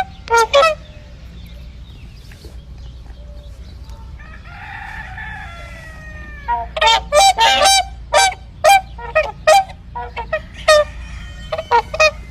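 Farmyard fowl calling: two short calls at the start, a fainter, longer falling call about four seconds in, then a quick run of short, repeated calls from about six and a half seconds on.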